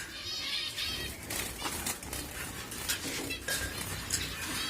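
Many zebra finches calling at once in a breeding aviary: short, repeated high chirps, with a few light clinks mixed in.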